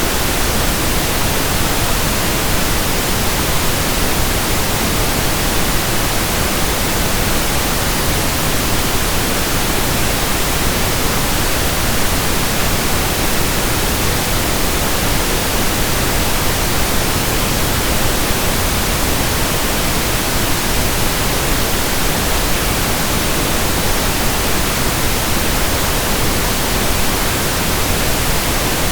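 Pink noise: a steady, even hiss spread across the whole range from deep to high, unchanging throughout.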